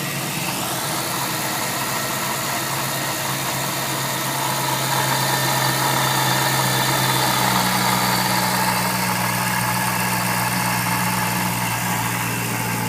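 BMW E92 M3's 4.0-litre V8, fitted with a VF Engineering Stage 2 supercharger kit, idling steadily after a cold start, swelling slightly in loudness about halfway through.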